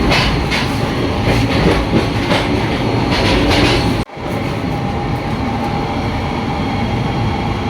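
Express passenger train running, heard from inside a coach: wheels clattering and rattling over the track. About four seconds in, the sound cuts out for an instant and returns as a steadier running noise with less clatter.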